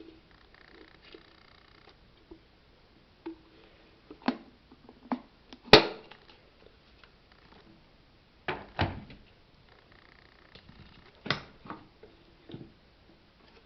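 Scattered clicks and knocks of the Aceline SS1800 electric kettle's parts being handled and taken apart, the sharpest knock about six seconds in.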